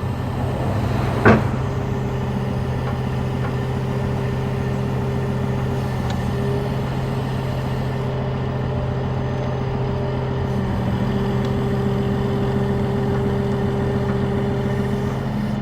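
Heavy tow truck's engine running at a steady speed, powering the hydraulics as the boom is raised, with a sharp metallic clank about a second in.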